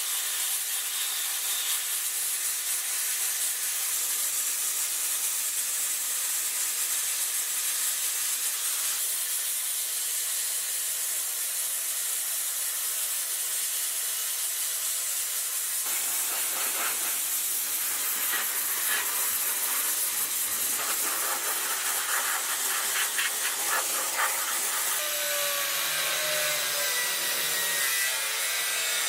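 Steady hissing, scraping noise of abrasive work on metal parts. Quick rubbing strokes come in the second half, and a few falling whining tones sound near the end.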